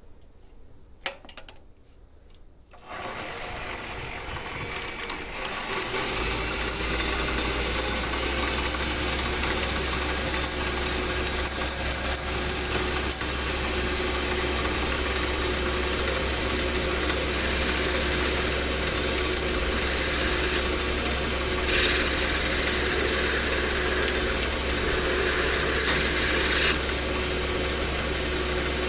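A small electric motor switched on about three seconds in and running steadily, with scattered clicks and rattles over it.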